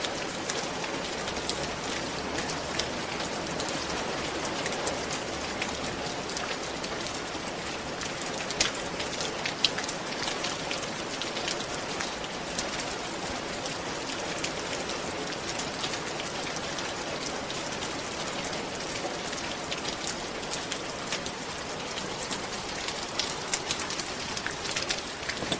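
Steady rain falling on a roof, a continuous patter with many individual drops ticking on the surface.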